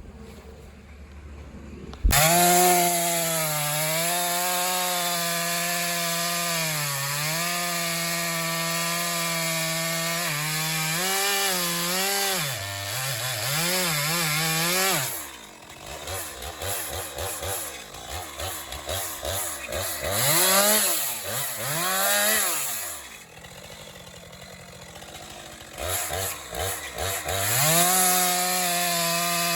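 Gas chainsaw cutting through a fallen tree, coming in abruptly at full throttle about two seconds in and holding a steady high note. Around the middle it is revved up and down repeatedly, drops back for a few seconds, then returns to full throttle near the end.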